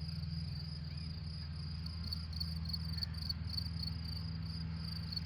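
Crickets chirping steadily in a dense, pulsing high chorus, over a low steady drone from a tractor mowing grass in the distance.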